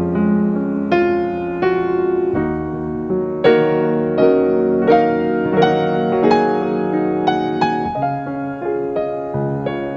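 Gentle piano music, single notes and chords struck about once or twice a second and left to ring.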